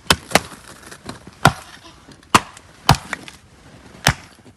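An axe striking firewood about six times at an uneven pace, each blow a sharp crack. The log is resisting splitting, apparently because of a knot.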